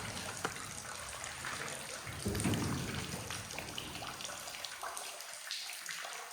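Water dripping in a limestone cave: many small irregular drips and ticks over a steady hiss, like a light patter of rain, with a short muffled low bump a little over two seconds in.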